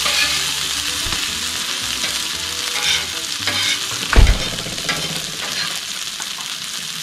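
Food sizzling in a frying pan, with scattered scraping clicks as it is stirred. A single heavy thump about four seconds in.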